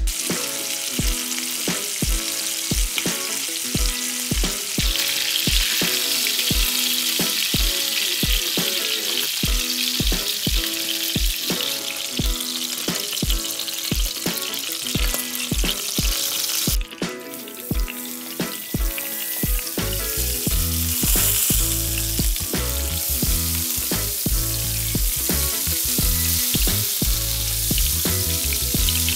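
Chicken thigh frying in oil and butter in a frying pan, a steady sizzle, over background music with a steady beat.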